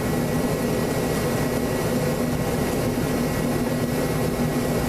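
Steady machine drone with a constant low hum and a faint high whine, even throughout with no starts or stops.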